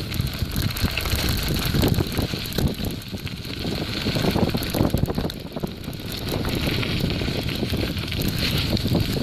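Bicycle tyres rolling and crunching over loose gravel and rocks on a steep downhill, ridden with the brakes mostly on, with the bike rattling over the bumps and a constant run of small knocks.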